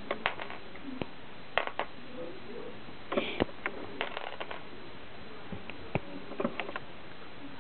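Small plastic Lego pieces clicking and knocking as they are picked up and set down, in scattered taps and short clusters.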